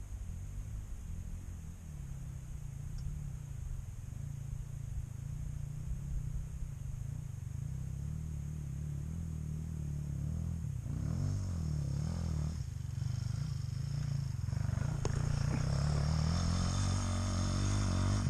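Dirt bike engine working up a hill climb, growing steadily louder, with the revs rising and falling over the last several seconds.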